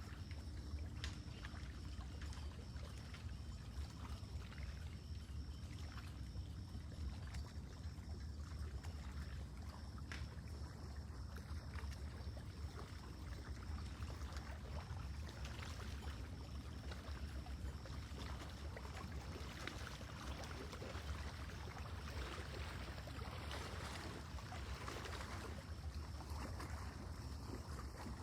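Lake water lapping and splashing gently at the shore in small, irregular laps, over a steady low rumble.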